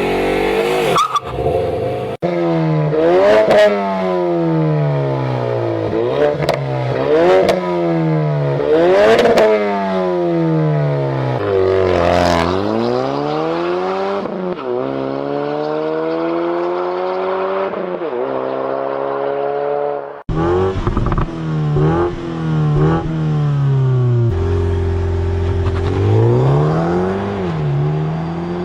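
V4 engines revving through their exhausts in a run of separate clips: repeated throttle blips, each climbing to a peak and falling back, with abrupt cuts between engines about two seconds and twenty seconds in. From about twenty seconds in come quicker short blips; near the end one engine holds a steady note before revving once more.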